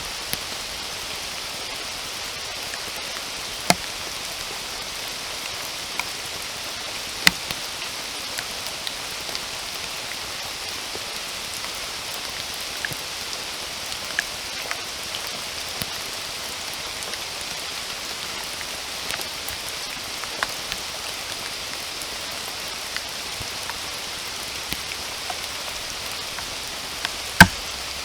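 Steady rain, an even hiss, with single larger drops striking sharply now and then; the sharpest comes near the end.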